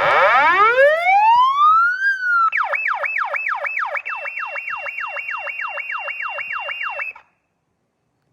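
Emergency vehicle's electronic siren: it winds up in a rising wail for about two seconds, then switches to a fast yelp of about three cycles a second. A steady high tone joins it about four seconds in, and it cuts off suddenly near the end.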